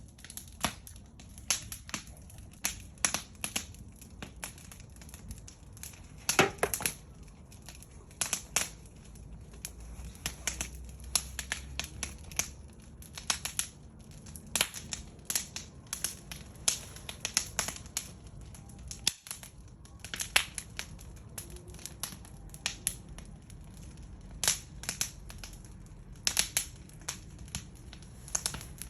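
Wood fire crackling: irregular sharp pops and snaps, some much louder than others, over a low steady rumble.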